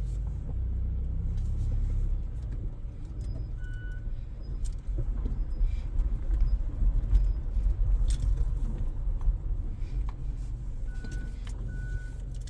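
Vehicle running and moving with a steady low rumble, loose items rattling and clicking, and a few short high beeps, about four seconds in and twice near the end.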